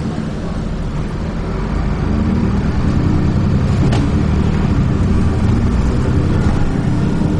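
Dennis Trident double-decker bus running along under way, heard from inside the bus: a steady low engine and drivetrain drone that grows a little louder about two seconds in. There is a brief tick about four seconds in.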